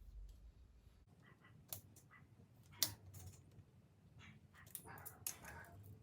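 Faint small clicks and taps of hand tools and set screws being handled at an engine block, with one sharp metallic click about three seconds in.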